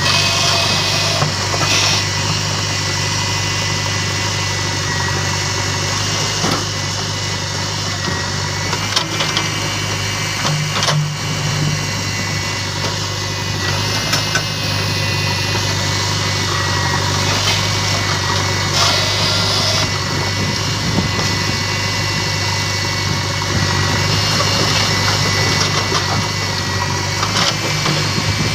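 Heavy diesel engines of a backhoe loader and tractors running steadily with a faint high whine, and occasional sharp knocks over the engine sound.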